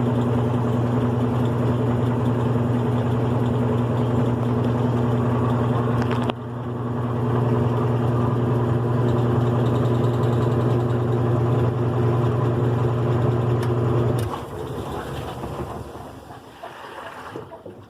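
GE Profile agitator washing machine running on its single-speed motor, a steady loud hum with a brief dip about six seconds in. The motor cuts off about fourteen seconds in and the machine's noise dies away over the next few seconds.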